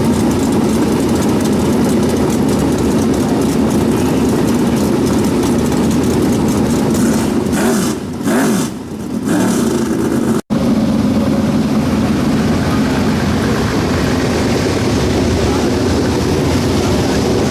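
USAC race car engines running hard in a pack, a loud steady drone. It fades briefly about eight seconds in, then drops out for an instant at an edit about halfway through.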